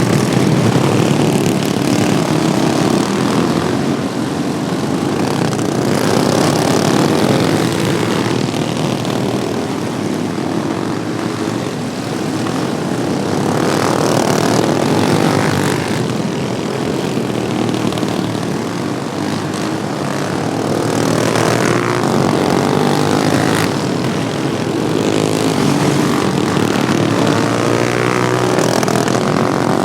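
Several modified Wheel Horse racing lawnmowers' small engines running together, their buzzing pitch rising and falling again and again as they rev through the corners and pass by.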